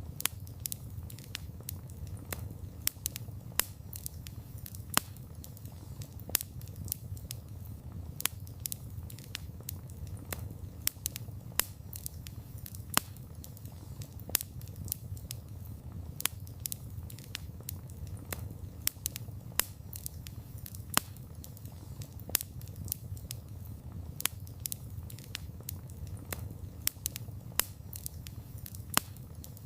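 Wood fire crackling: irregular sharp pops and snaps from burning wood over a soft, steady low rumble of the flames.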